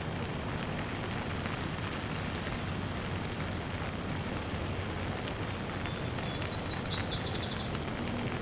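Steady rain falling, an even hiss with scattered drops. Near the end a bird gives one quick, high, rapidly repeated trill lasting under two seconds.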